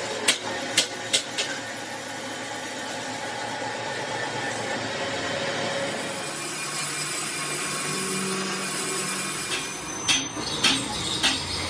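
Metalworking noise: a few sharp metal knocks in the first second or so and again near the end, over a steady mechanical hum.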